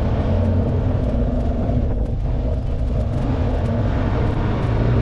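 Motorcycle engine running steadily while riding, a continuous low rumble.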